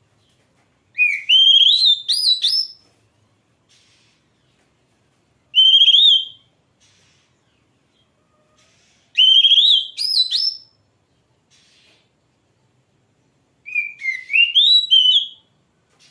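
Oriental magpie-robin (kacer) singing: four loud phrases of clear, rising, warbled whistles, each lasting one to two seconds, with pauses of a few seconds between them.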